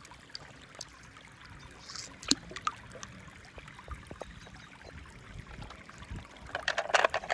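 Faint scattered clicks and light rattles of small toys being handled, over a low hiss. The clicks come thicker near the end.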